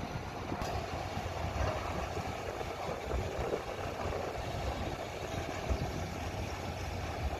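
Diesel engines of heavy earthmoving machinery running steadily with a low rumble.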